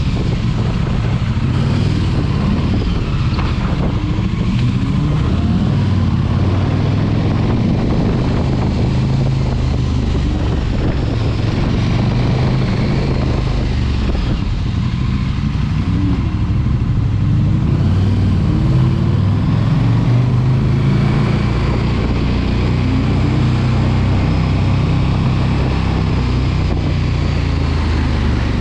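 Big sport motorcycle engine running under way, its pitch rising and falling as the rider opens and closes the throttle.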